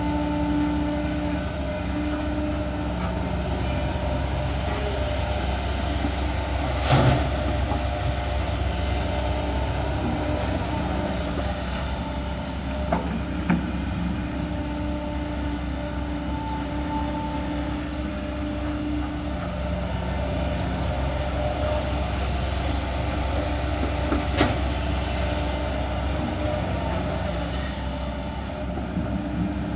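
Kobelco SK140 hydraulic excavator's diesel engine running steadily under load while it digs, with a few sharp knocks from the working machine, the loudest about seven seconds in.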